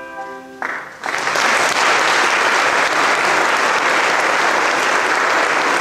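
A held musical chord stops about half a second in. About a second in, the audience starts applauding, and the applause runs on at a steady, loud level.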